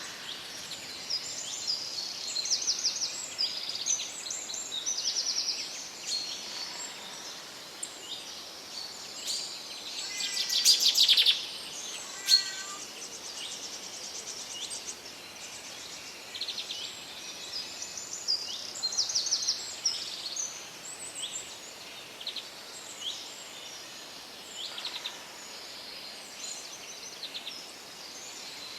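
Several songbirds singing and calling, with many short chirps and trills over a faint steady hiss of background. One bird's louder trilled song stands out about ten seconds in.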